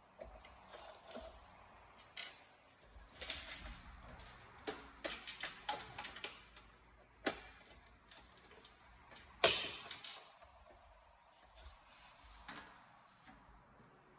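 Irregular small clicks, taps and scrapes of parts and tools being handled, with one louder knock about two-thirds of the way through.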